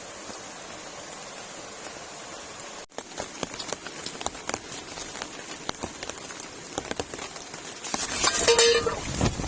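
Rain: a steady hiss of falling rain, then from about three seconds in, close irregular taps of raindrops hitting a surface. A louder rush of noise comes near the end.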